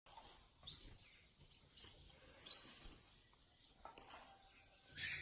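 Small munias giving a few short, high chirps, faint against an outdoor background hiss, with a louder call near the end.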